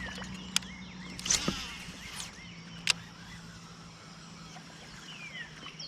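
Faint steady low hum with several short, falling bird chirps and a couple of sharp clicks.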